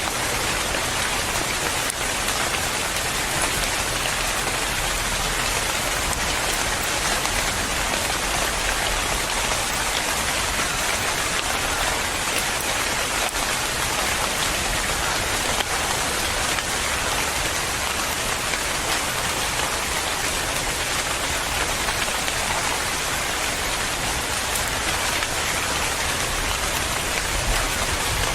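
Steady rain falling, an even continuous hiss of drops with no thunder.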